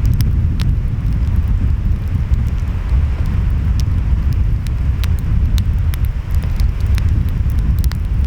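Wood fire crackling with scattered sharp pops, over a steady low rumble of ocean waves and wind.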